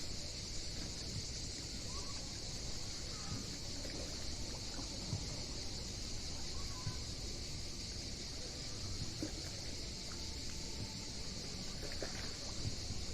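Small sea waves washing and lapping on the shore, under a steady high-pitched hiss.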